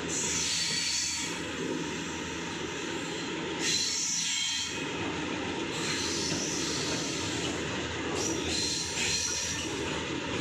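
Freight train of BOXNHL wagons rolling past on the rails: a steady rumble of wheels on track. Shrill wheel squeals flare up right at the start, about four seconds in, and again around eight to nine seconds in.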